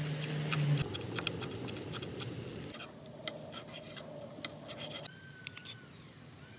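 Scattered crackles and pops from a barbecue grill fire cooking chicken, busier in the first few seconds. A low steady hum cuts off within the first second, and a brief whistle-like glide sounds about five seconds in.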